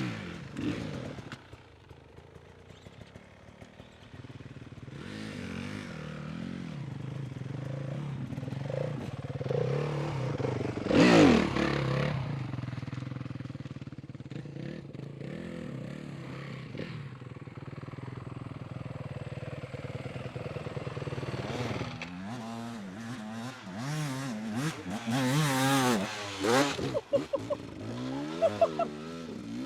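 Dirt bike engine ticking over with a steady note, given a loud rev about eleven seconds in. In the last third it revs up and down over and over as a bike is ridden hard at the bank.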